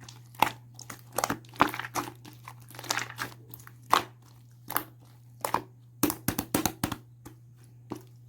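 Something being crinkled and crunched by hand in irregular clusters of sharp crackles, over a steady low hum.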